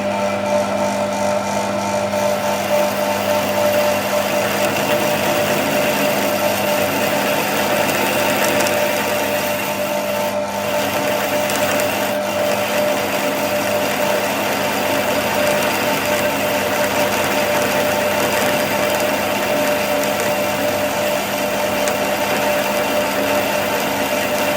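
Shop machinery or a power tool running steadily under load, with a constant whine over a broad hiss.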